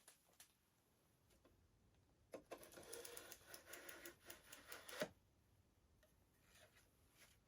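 Rapid clicking and rattling of small hard parts being handled, lasting about two and a half seconds and ending in a sharper click; otherwise near silence.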